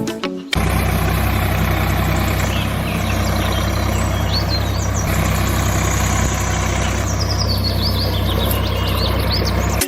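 Engine running steadily, starting about half a second in, with birds chirping high above it.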